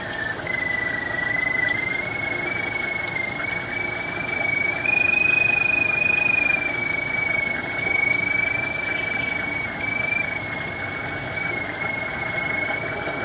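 Handheld pipe locator's tracking tone, a continuous whistle that drifts slowly up and down in pitch as the receiver is swept over the sewer camera's sonde, highest about five seconds in. A steady engine-like rumble runs underneath.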